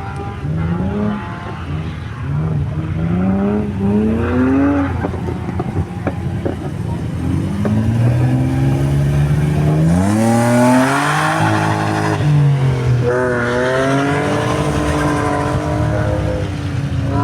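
Rally car engine at the start line, blipped in three short revs, then the car launches and accelerates hard, its engine note climbing steeply before settling into a high, steadier note after a gear change.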